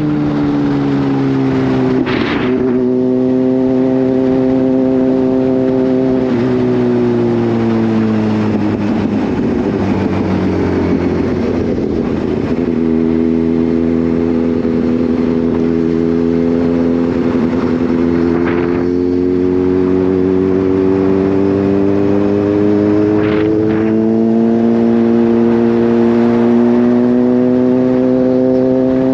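Kawasaki Z H2's supercharged inline-four engine running under way, its note stepping and gliding with throttle and gear changes. The pitch drops sharply about two seconds in, sinks slowly through the middle, then rises again near the end.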